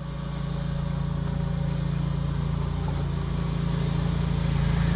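An engine running steadily at an even, unchanging pitch, swelling up over the first second and then holding.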